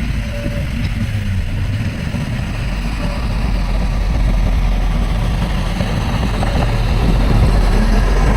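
Heavy diesel engine of earthmoving machinery running steadily, a deep rumble that grows gradually louder.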